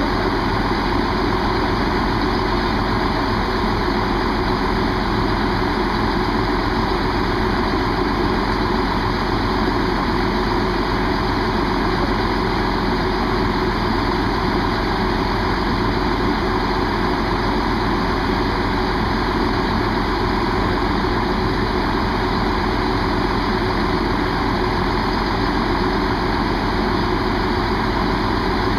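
Diesel train engine idling steadily, with no change in pitch or level.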